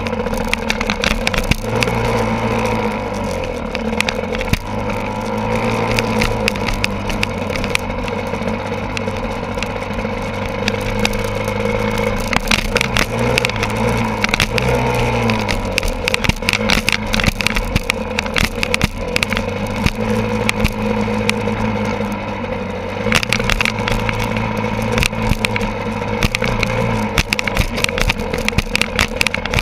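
Enduro motorcycle engine running, its pitch rising and falling every few seconds with the throttle, mixed with many sharp clicks and knocks.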